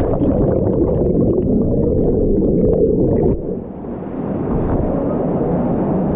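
Muffled underwater rumble and gurgling, heard through a microphone submerged in a waterfall pool after a jump into the water. It dips briefly a little past three seconds in.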